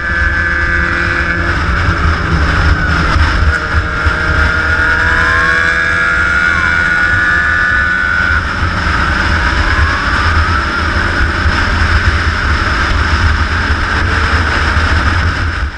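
Big motorcycles riding in a group, a loud, steady low engine rumble with a few tones sliding up and down above it. It starts and cuts off abruptly.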